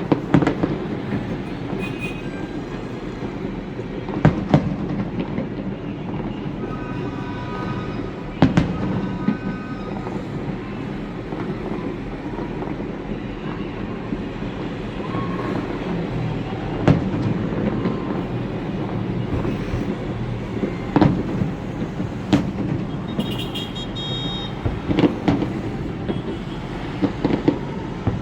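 Fireworks display: a steady rumble of bursts with sharper single bangs every few seconds, and brief high tones twice.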